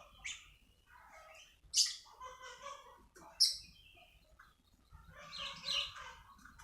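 Songbirds chirping and warbling in short broken phrases, with two loud sharp calls about a second and a half apart in the middle.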